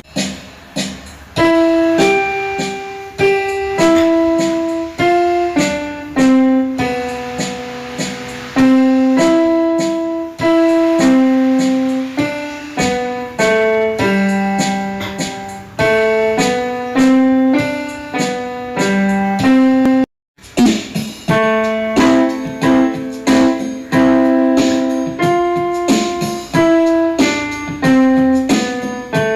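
Background piano music: a steady melody of single notes over a simple bass line, cutting out for a moment about twenty seconds in before carrying on.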